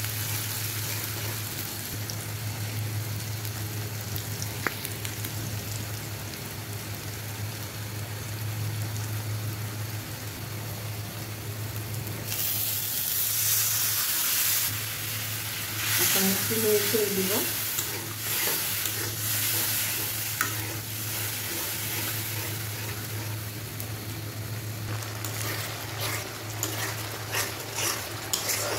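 Sliced onion and garlic frying in oil in a wok, sizzling steadily while a metal spatula stirs and scrapes the pan. About twelve seconds in the sizzle swells louder for a couple of seconds, and near the end comes a quick run of scraping strokes.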